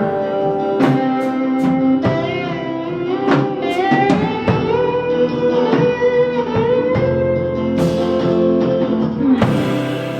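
Live rock band playing an instrumental passage: a guitar lead with sliding, bending notes over bass and drums. The playing stops about nine seconds in.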